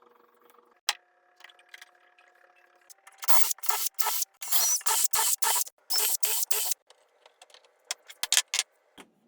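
A run of about ten loud back-and-forth scraping strokes, roughly three a second, lasting a few seconds. A few sharp clicks follow near the end.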